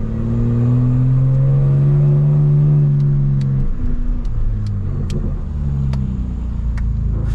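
Straight-piped BMW M4 Competition's twin-turbo inline-six pulling under throttle, its drone rising slowly in pitch for about three seconds, then dropping off and running lower, with a scattering of sharp clicks.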